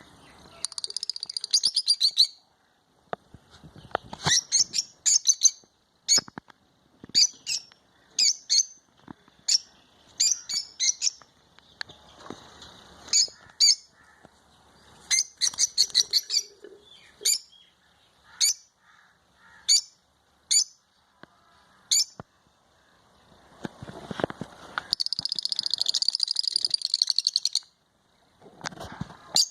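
Bird chirping: many short high chirps at irregular intervals, with a longer rapid trill at the start and another about 25 seconds in.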